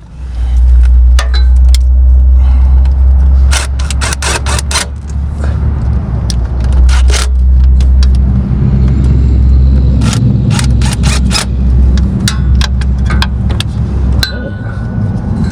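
Repeated short metallic scrapes and clicks of hand-tool work on an electrical connector, over a steady low rumble.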